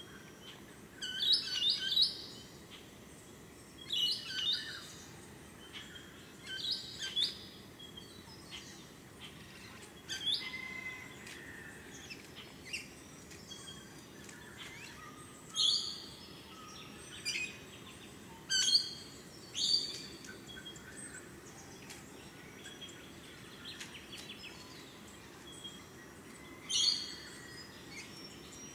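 Birds calling: about ten clusters of short, sharp, high chirps every few seconds, over a faint steady low background noise.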